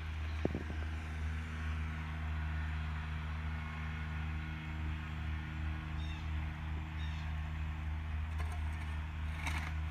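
A steady low mechanical hum, with a couple of faint taps about half a second in.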